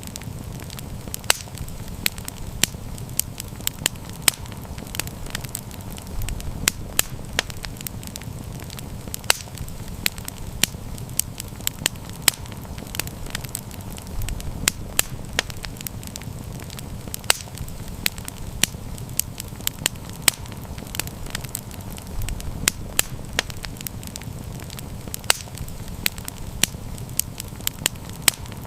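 Campfire burning with a steady low rumble and frequent sharp, irregular crackles and pops.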